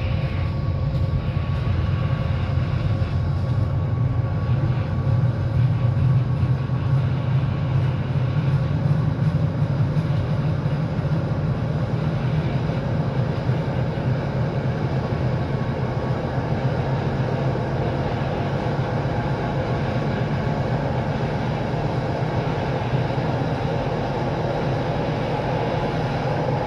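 PKP Intercity passenger train running out of the station, a steady low rumble of wheels on rails with a faint steady whine over it.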